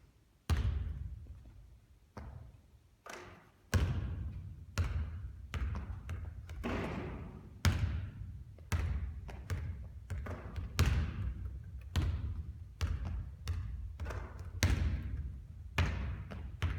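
Basketball bouncing on a court floor: a string of hard thuds, each followed by an echo. The first comes about half a second in, and from about four seconds in they come one or two a second.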